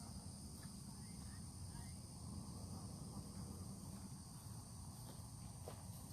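Steady outdoor insect chorus of crickets, a continuous high-pitched trill, over a low rumble of wind on the microphone, with a few faint bird chirps early on.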